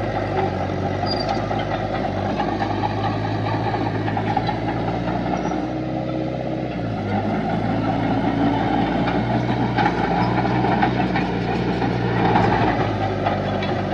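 Diesel engine of heavy earthmoving machinery running, its speed shifting up and down a few times, with a couple of faint knocks.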